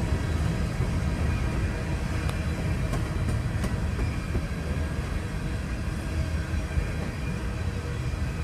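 Slow-moving empty coal train rolling past: a steady low rumble of wheels on rail, with a few faint clicks.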